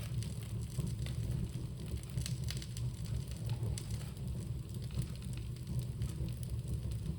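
Bonfire burning, with scattered sharp crackles and pops over a steady low rumble.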